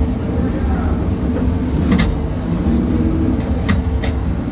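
Drag car's engine idling steadily, heard from inside the cabin, with a few sharp clicks about two seconds in and again near the end.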